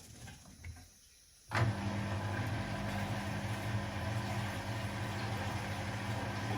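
A laundry machine's motor starts with a sharp click about a second and a half in and then runs with a steady hum.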